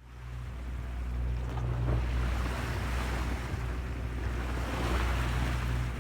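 Wind buffeting the microphone over the rush of sea waves, fading in at the start and swelling twice as the waves wash past.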